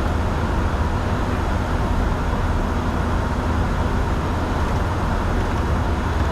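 Steady in-flight cockpit noise of a Bombardier Challenger 605 business jet: an even rush of airflow over a low drone from its turbofan engines, with a faint steady tone in it.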